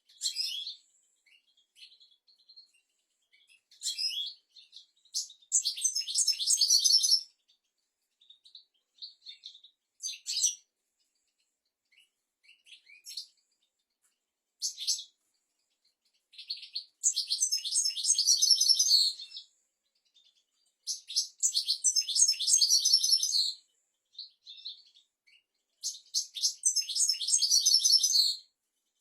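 European goldfinch singing: short calls and longer rapid twittering song phrases of two to three seconds, with pauses between them.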